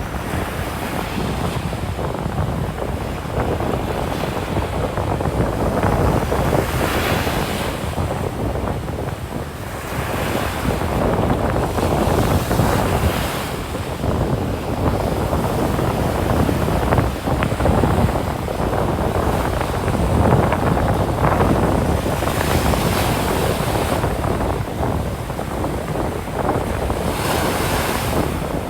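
Ocean waves breaking and washing up a sandy beach, with gusting wind buffeting the microphone. Brighter hissing surges come every few seconds as waves break.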